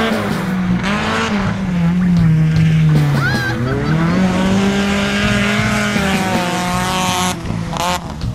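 Rally car engine running at high revs, its pitch falling for about two seconds and then climbing again as the car passes.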